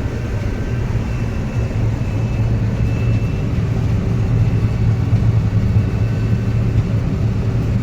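Heavy farm machine engine running steadily with a constant low drone.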